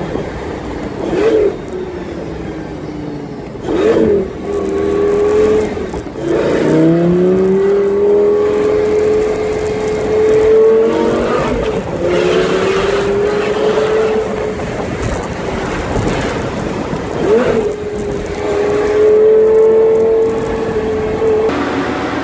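Lamborghini Gallardo's V10 engine heard from inside the cabin while driving. Its note climbs steadily and drops sharply at several gear changes. The engine is new and still being run in, so it is driven gently.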